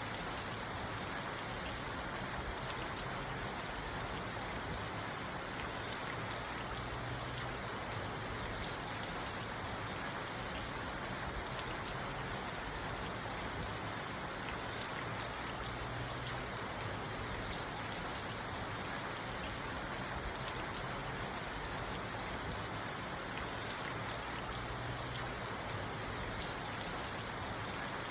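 Steady rain falling on a parked car, heard from inside the cabin, with scattered drops ticking on the body and glass.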